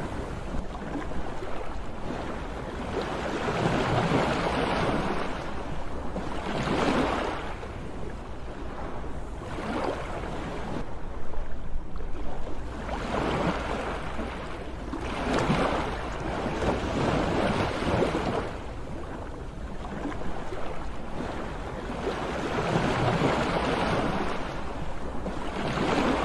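Sea waves breaking and washing onto the shore, each surge swelling and fading every two to four seconds, over a steady low rumble.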